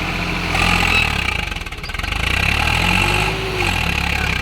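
Swaraj 744 XT tractor's three-cylinder diesel engine running, its sound swelling louder twice.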